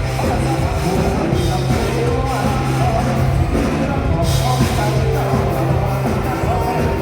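Loud amplified live mor lam band music, with a heavy held bass note under gliding melodic lines.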